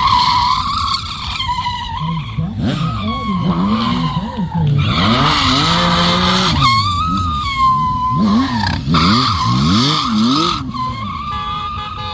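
Motorcycle engine revving up and dropping back over and over, with tires squealing on pavement.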